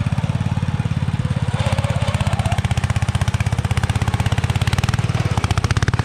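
A small engine running with an even, rapid pulsing beat, working harder and brighter from about a second and a half in.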